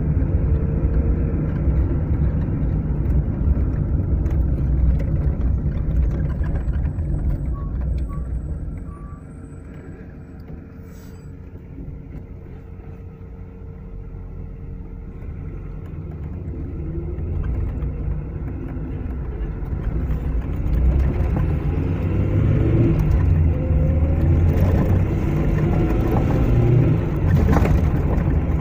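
Car on the move with steady low road and engine rumble, which eases off about nine seconds in and builds up again over the following several seconds.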